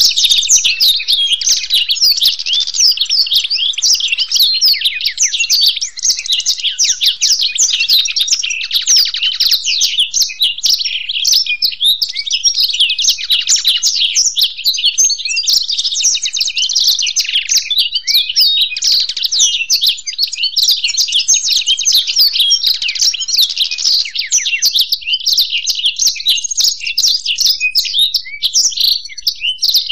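Black-throated canary and European goldfinch singing together: an unbroken stream of fast twittering, buzzy trills and quick chirps.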